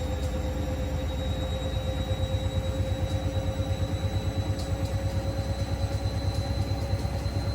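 Hoover Link washing machine on its final spin at 1000 rpm: a steady motor whine that creeps slightly up in pitch, joined about two seconds in by a rapid, even pulsing from the spinning drum.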